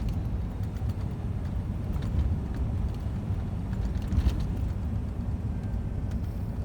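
Scania truck under way: a steady low rumble of engine and road noise, with a brief knock about four seconds in.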